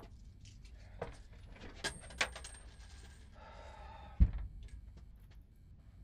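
Sharp metallic clicks and clinks, two of them with a brief high ring. Then a short rattle and a heavy dull thump a little over four seconds in, the loudest sound.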